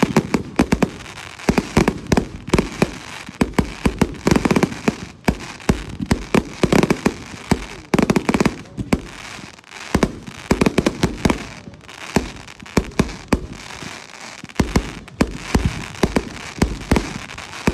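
Fireworks display: a rapid, near-continuous barrage of bangs and crackles, coming in dense clusters with short lulls between them.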